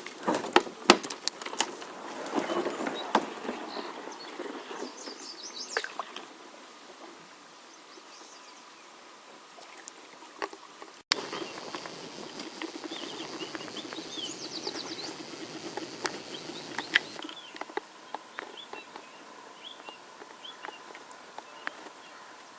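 Outdoor creek ambience: sharp knocks and light water sounds from kayak paddles in the first few seconds, then small birds chirping at intervals in the background.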